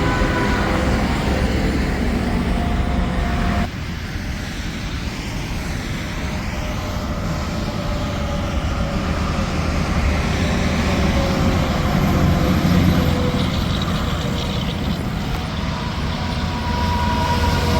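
Semi trucks passing on an interstate highway, their tyre and engine tones sliding down in pitch as each goes by over a constant traffic rumble. The level drops suddenly about four seconds in.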